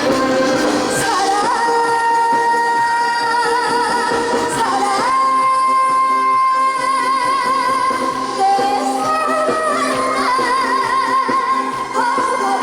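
Young girl singing a trot song over band accompaniment, holding long notes with a wide, wavering vibrato.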